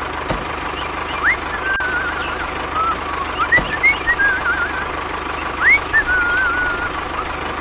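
A steady hum like a small motor running, with three whistled phrases over it, each a quick rising note followed by a warbling trill.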